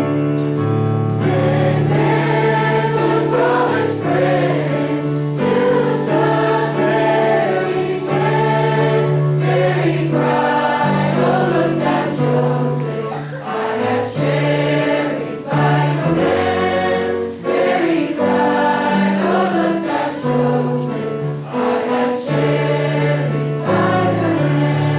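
Choir singing a carol with sustained, slowly changing notes over a steady low accompaniment.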